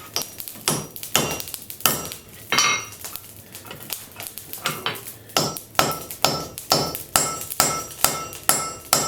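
Blacksmith's hand hammer striking a hot railroad spike on an anvil. The blows are uneven at first, then from about halfway settle into a steady run of a little over two a second, each with a short metallic ring.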